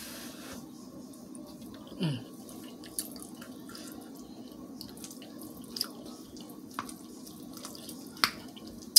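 Mouth sounds of someone eating a spoonful of buttered rice: wet chewing and lip smacks with a few sharp clicks, over a steady low hum.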